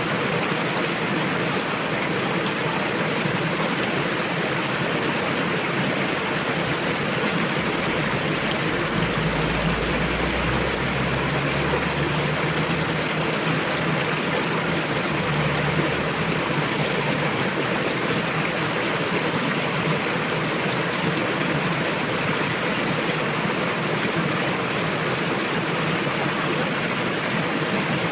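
Forest river rushing, a steady noise of flowing water. A low rumble swells in about eight seconds in and fades out about eight seconds later.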